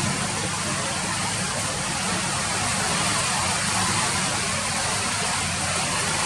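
Steady rain falling, an even hiss with a low rumble under it.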